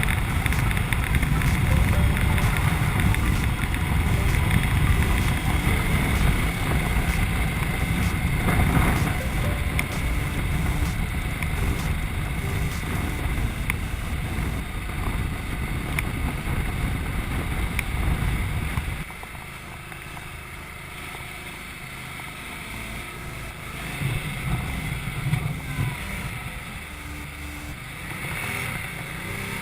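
Ducati Multistrada motorcycle riding, its engine mixed with heavy wind rush on the helmet-mounted camera's microphone. The noise drops markedly about two-thirds of the way through and stays quieter after that.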